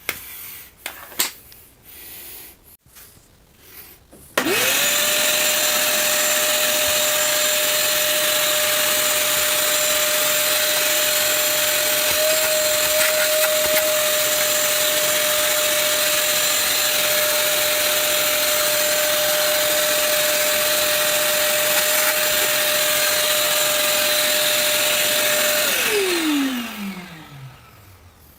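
A few handling clicks, then a vacuum cleaner is switched on about four seconds in and runs steadily with a high whine. It is switched off near the end, and its pitch falls as the motor winds down.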